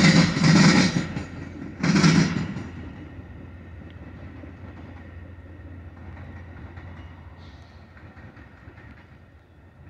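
Metra bilevel commuter train rolling slowly past: its wheels clatter loudly over rail joints three times in the first two and a half seconds, then the sound settles to a quieter steady rumble that slowly fades.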